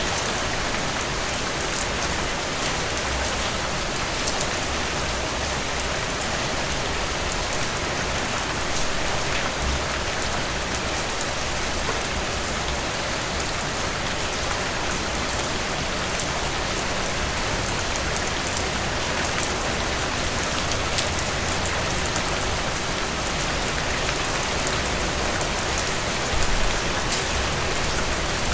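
Steady rainfall: an even hiss of rain on a surface, with individual drops ticking through it.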